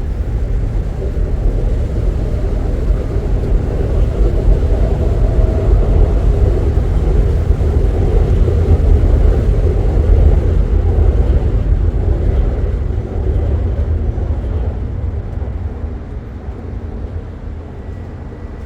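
Loud low vehicle rumble that builds over about ten seconds, then fades toward the end.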